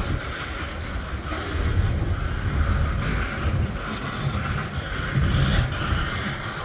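Freight train cars rolling past, steel wheels on the rails making a low rumble that swells and eases.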